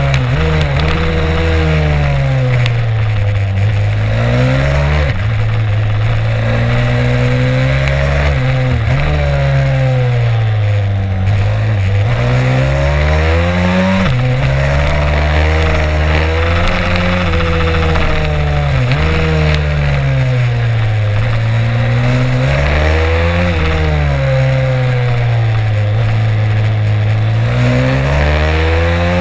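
Stomp 140 pit bike's single-cylinder four-stroke engine heard onboard, revving up and down hard: its pitch climbs and then drops sharply several times, as it is worked through the gears and backed off and opened again around the track.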